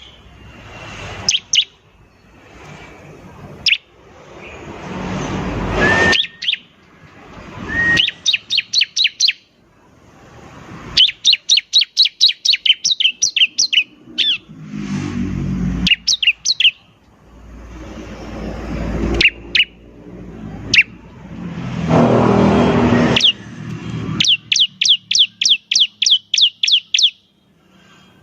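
Bar-winged prinia (ciblek) singing: trains of rapid, sharp high chirps, several a second. These alternate with harsh, noisy passages that swell louder over a few seconds and then cut off.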